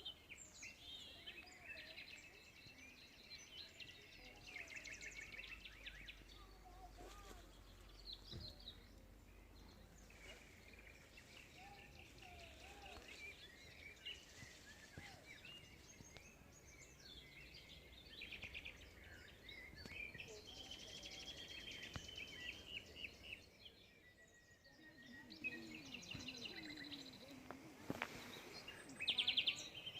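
Small birds singing in the background, several overlapping chirps and fast trills, faint.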